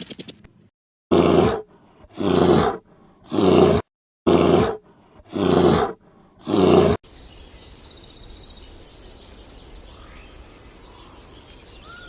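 A large animal giving six loud, rough calls in an even rhythm about a second apart. Quieter background with faint high chirps follows after about seven seconds.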